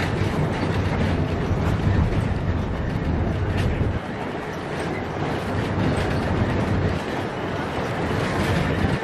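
Narrow-gauge train running along the track: a steady low rumble with scattered clicks from the wheels on the rails, the rumble easing about four seconds in.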